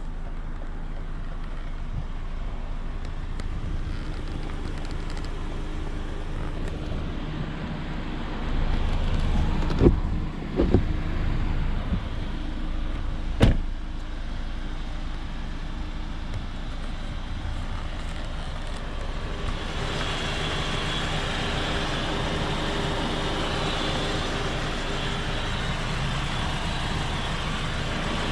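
Lexus RX 200t with its 2.0-litre turbocharged four-cylinder (8AR-FTS) driving steadily, its engine and tyre noise running continuously. A few sharp thumps come a third to halfway through, and the road hiss grows louder for the last third.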